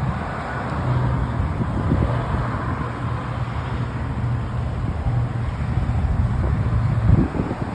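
Honda Rebel 500's parallel-twin engine running steadily at idle, with a short louder burst near the end.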